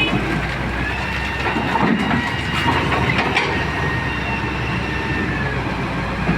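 Heavy-duty excavator working: a steady low engine rumble with clatter and drawn-out high metallic squeals.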